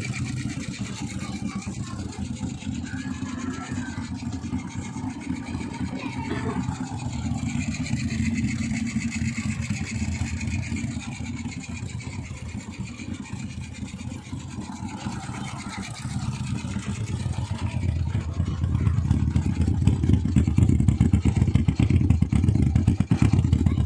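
Small motorcycle engines running through one shared exhaust, a steady pulsing rumble that grows louder over the last several seconds.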